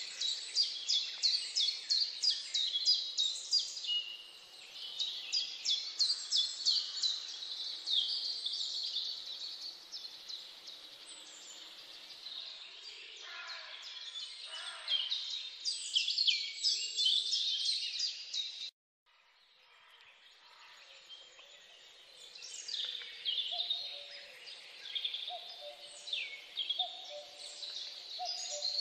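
Many songbirds chirping and singing together in a dense run of quick high chirps. The sound cuts out completely for a moment a little past halfway, then the birdsong returns, joined near the end by a lower call repeated at an even pace.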